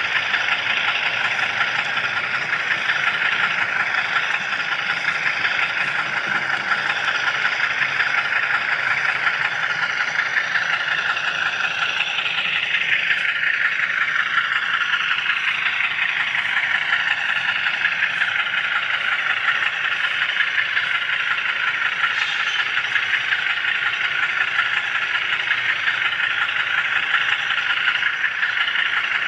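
HO scale camera car rolling along model railroad track, a steady whirring rattle of its motor and wheels, with a falling whine about a third of the way in.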